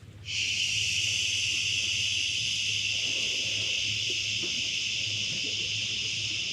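A person breathing out one long, steady 'shhhh', the Taoist liver healing sound, starting a moment in and held without a break.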